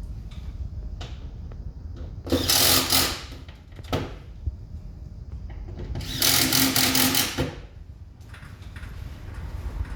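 Cordless power driver running in two bursts of about a second each, a few seconds apart, with a fast rattle: screws being driven in while an air conditioner is put back together.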